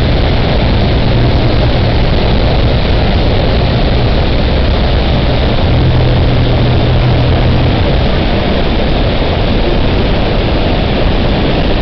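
Speedboat engine running under a loud steady rush of water and wind. The low engine hum weakens about eight seconds in while the rushing noise carries on.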